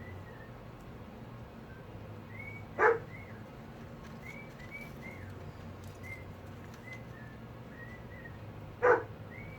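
A dog barks twice, two single sharp barks about six seconds apart, while soft high chirps come and go in between.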